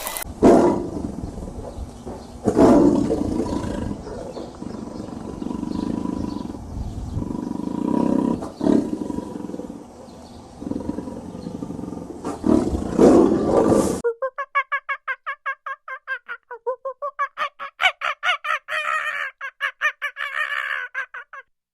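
A big cat roaring and growling in several loud, rough roars. About fourteen seconds in it cuts to a different animal giving a rapid string of short, pitched calls, several a second.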